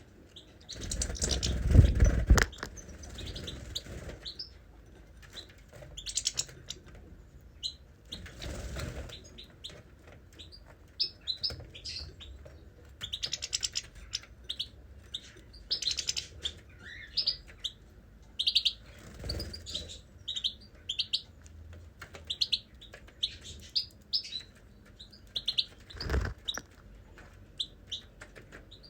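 Small pet birds chirping in many short, high calls, with a few louder rustling thumps, the loudest about two seconds in.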